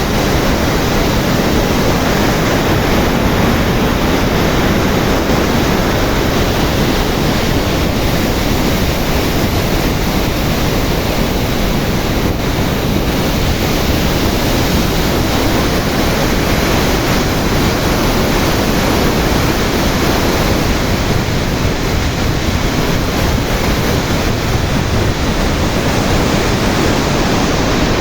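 Floodwater pouring through the Sripada Yellampalli project's open spillway, a steady, loud rush of water.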